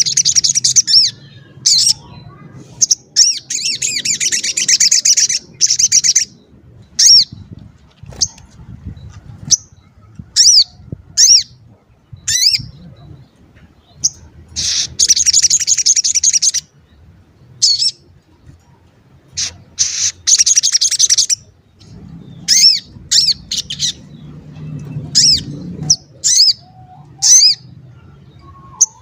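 Sogon songbird calling: fast high trilled phrases of a second or two alternate with single sharp, falling "cuit" chirps.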